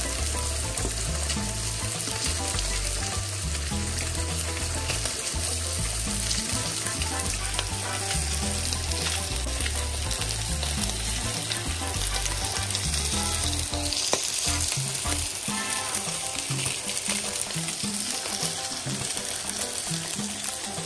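Salmon steaks and garlic cloves frying in a pan, with a steady sizzle and crackle.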